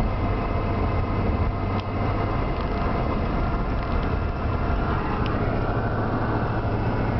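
Steady engine and road noise inside a moving car's cabin, a low drone with an even rush of tyre and wind noise.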